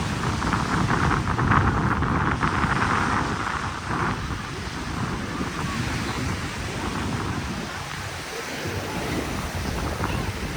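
Wind buffeting the microphone, with waves washing on the beach underneath; loudest in the first four seconds.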